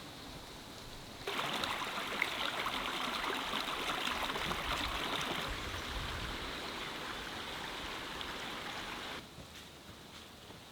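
Heavy rain in a storm: a steady patter that jumps suddenly to a much louder rush of pouring rain about a second in, then drops suddenly back to a lighter patter near the end.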